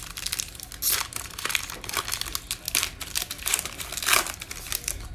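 Crinkling and tearing of a trading card pack's wrapper as it is ripped open and handled, in quick irregular crackles.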